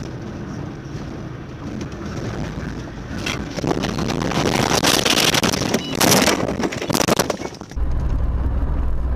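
Vehicle noise with wind rushing on the microphone, building from about three seconds in into a loud rushing noise for several seconds. About eight seconds in it changes abruptly to a steady low hum.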